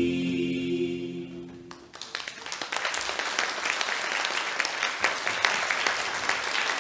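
The last held chord of a choral piece fades out, and about two seconds in an audience breaks into steady applause.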